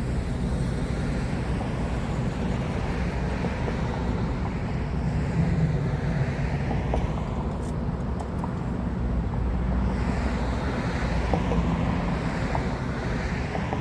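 Road traffic: a steady low rumble of vehicles with cars swelling and fading as they pass, and wind buffeting the microphone.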